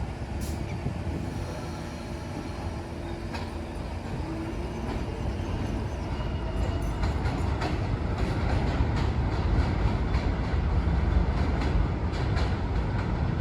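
New York City Subway train running on the rails: a steady low rumble, with rapid clicking of wheels over rail joints starting about halfway through as the sound grows louder.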